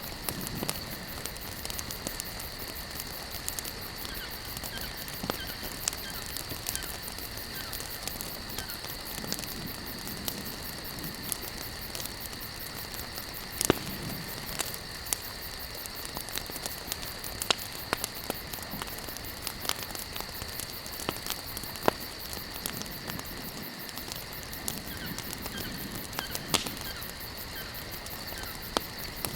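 Wood campfire crackling: irregular sharp pops and snaps over a steady hiss, one pop about halfway through louder than the rest.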